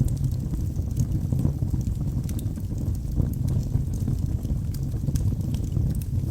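Wood logs burning in a fireplace: a steady low rumble of flames with frequent small crackles and pops.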